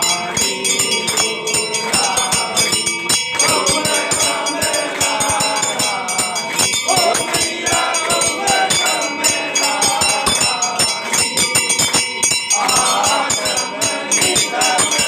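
Hindu temple aarti: a group of devotees singing in chorus, with temple bells ringing and a steady run of rhythmic strikes throughout.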